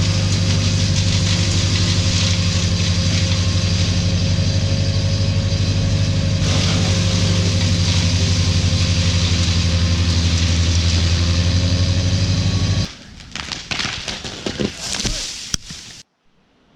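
A large engine runs steadily and loud for about thirteen seconds, then stops abruptly. Quieter scattered clicks and knocks follow, and the sound cuts to near silence near the end.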